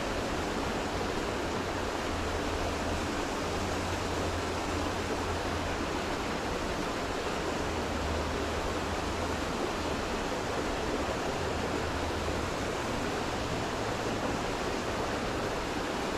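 Steady rush of a fast-flowing creek running high after a hurricane, with a low rumble that comes and goes and drops away about two-thirds of the way through.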